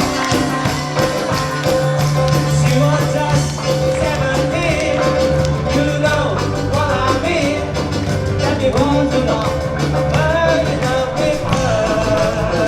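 Live band playing an upbeat oldies pop song just after a count-in. A lead vocal comes in about two seconds in over steady bass and backing instruments.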